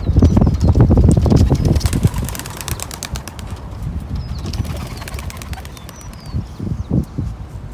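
A flock of young racing pigeons flapping their wings in a dense clatter of wing claps, loudest over the first two seconds and then thinning out as the flock moves away.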